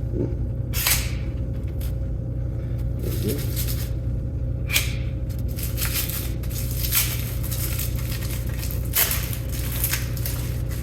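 Metal parts and small hardware being handled: a scatter of sharp clicks and clinks, the strongest about a second in, near the middle and about nine seconds in, over a steady low background hum.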